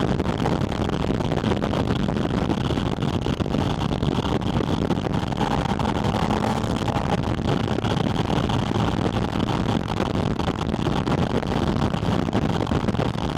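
Porsche 718 Spyder RS's naturally aspirated 4.0-litre flat-six, heard through a microphone on its air intake while driving at a fairly steady pace. It is a loud, even intake drone mixed with rushing wind noise.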